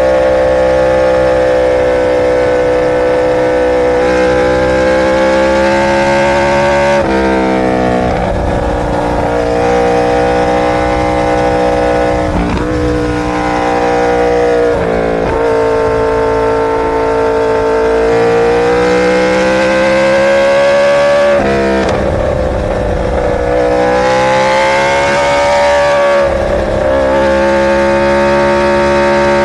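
Superbike inline-four engine running at high revs, its pitch dropping sharply about four times and then climbing back again.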